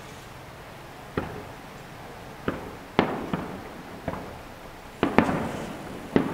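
Aerial firework shells bursting: a run of about eight sharp bangs, each trailing off in an echo, some following close on one another.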